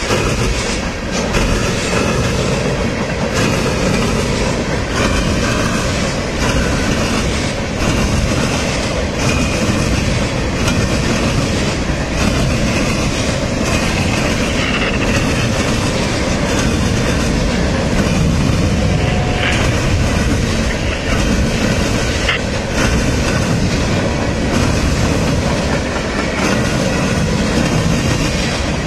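Railcars rolling past close by: a loud, steady rumble of steel wheels on rail with clicking over rail joints and a few brief, faint wheel squeals.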